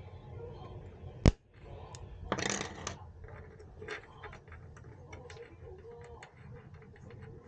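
Small clicks and taps of computer hardware being handled, with one sharp knock about a second in and a short scraping rustle a moment later, over a low steady hum.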